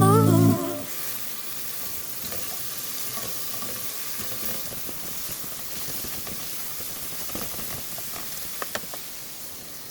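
Food frying in a pan: a steady sizzle with small crackles, and a few sharper pops or clicks near the end.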